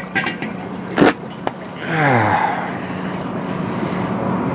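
Cadillac 472 V8 running steadily at idle under a sharp knock about a second in, followed by a short drawn-out vocal sound falling in pitch.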